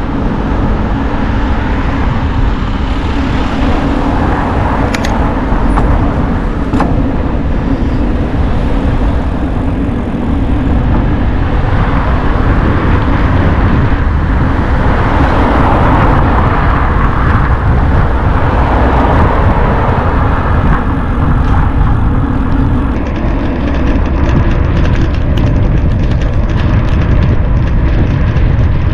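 Loud, steady rumbling noise of riding a bicycle: wind buffeting the microphone over the hum of tyres rolling.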